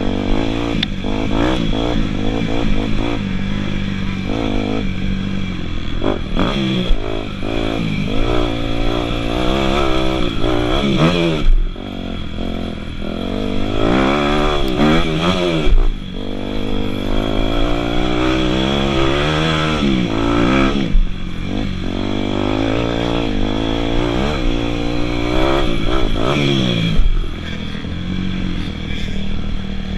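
Dirt bike engine being ridden hard, its pitch climbing and falling again and again as the throttle is worked, with the revs cut off sharply several times.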